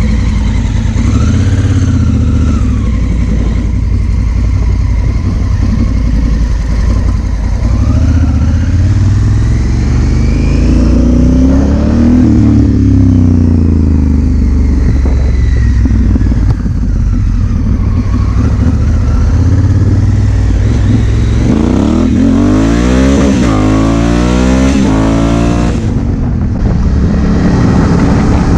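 2016 Honda Africa Twin CRF1000L's parallel-twin engine pulling away and accelerating through the gears, the engine note climbing and dropping back at each shift. There is a stretch of quickly rising and falling revs near the end.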